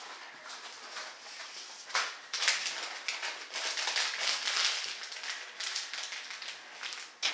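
Irregular rustling and scraping of hands working materials on a bench, with a few louder scratchy strokes about two seconds in and again around four to five seconds.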